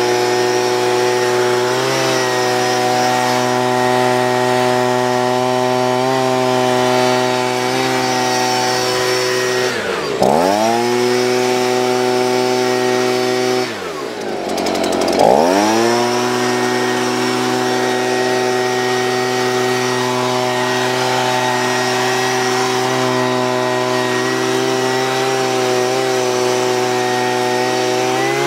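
Echo two-stroke gas leaf blower running at high throttle, blowing air into a car's interior. The throttle drops twice, briefly about ten seconds in and down toward idle for about a second around fourteen seconds in, then the engine revs back up to full speed.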